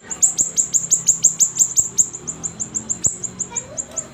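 Siri-siri songbird singing a rapid, steady run of short, high, downward-sweeping chirps, about five or six a second.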